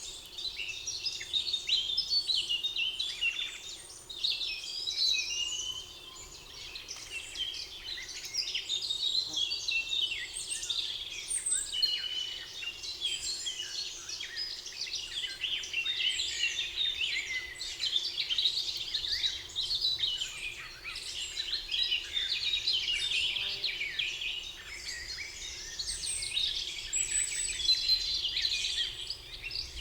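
Many songbirds singing at once, a dense chorus of overlapping chirps, trills and whistles, over a faint steady background hum.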